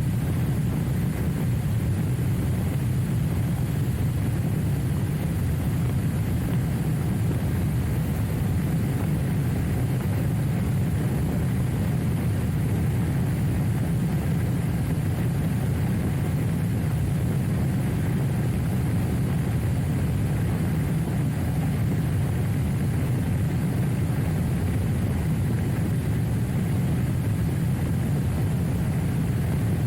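Trial motorcycle on the move: a steady low drone that keeps the same pitch and loudness, with no revving or gear changes.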